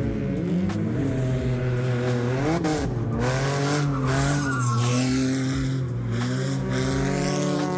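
Drift car engine revving up and down repeatedly as it slides, its tyres squealing.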